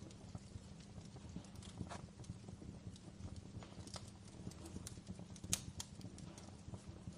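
Wood fire crackling in a fireplace: a low steady rumble of flames with scattered pops and snaps, the sharpest about five and a half seconds in.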